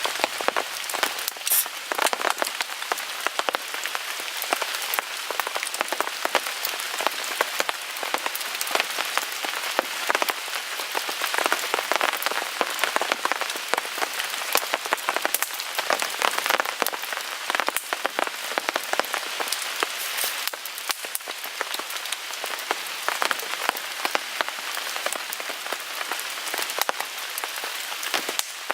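Steady rain falling on a tarp overhead, a dense hiss thick with many sharp ticks.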